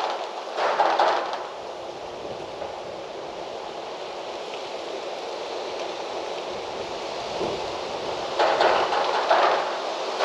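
Wind gusting through trees with leaves rustling. It surges about a second in, eases to a steady rush, then swells again in gusts near the end.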